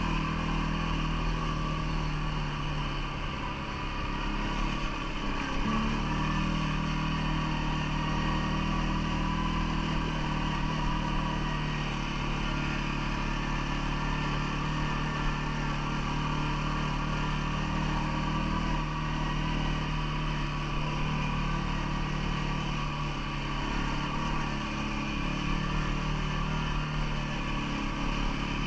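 CFMoto ATV engine running steadily, its note stepping up slightly about six seconds in.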